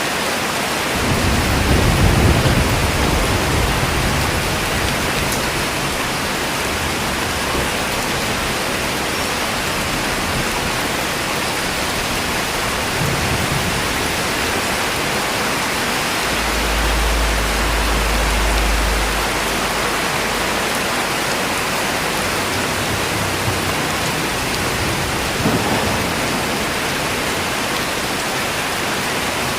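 Steady rain falling, with low rumbles of thunder: the loudest about two seconds in, a deep one past the middle, and smaller ones in between and near the end.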